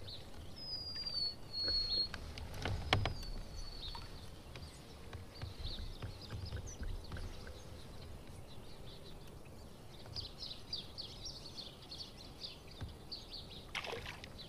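Small birds calling from the riverbank: a thin high whistle that dips and then holds, heard twice in the first few seconds, and near the end a quick run of short high chirps, over a low rumble of water around the kayak. A sharp knock comes about three seconds in.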